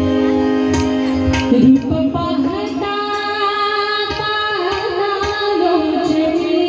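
Marathi devotional abhang music: a held note gives way about a second and a half in to a wordless, sliding melodic line, over pakhawaj drum strokes.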